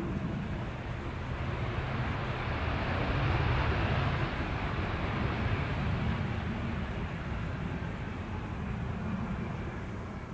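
Jet airliner passing, its engine noise swelling to a peak about four seconds in and then slowly fading.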